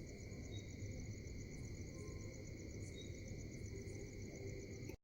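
Insects trilling steadily, a high, fast-pulsing chirr, over a low rumble; the sound cuts off suddenly at the end.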